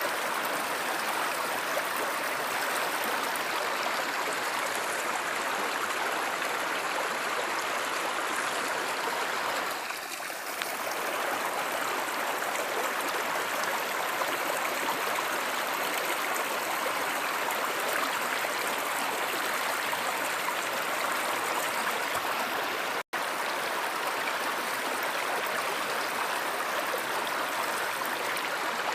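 Steady rushing and burbling of a flowing stream. It dips slightly about ten seconds in and cuts out for an instant about two-thirds of the way through.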